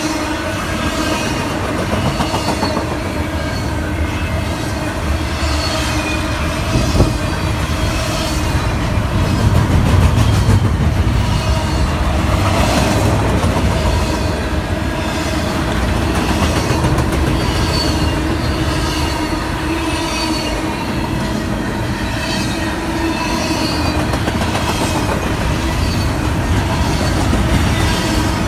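Long freight train's cars rolling past with a steady rumble, rhythmic clicking of wheels over the rail joints and a steady squeal from the wheels.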